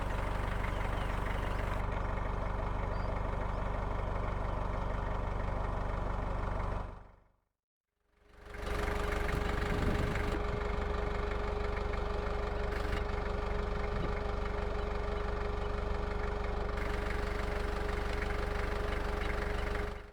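A car's engine running with a steady low rumble. It fades out about seven seconds in and fades back in a second later, now with a steady, fairly high hum over it.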